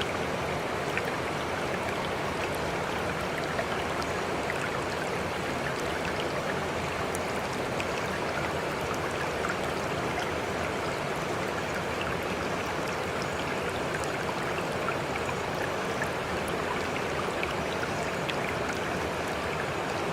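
Running water flowing steadily, with scattered small splashes and drips over the constant rush.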